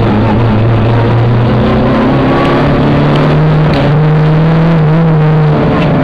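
Rally car engine running hard at high revs, heard from inside the car. The engine note steps up about two seconds in and dips briefly near the end.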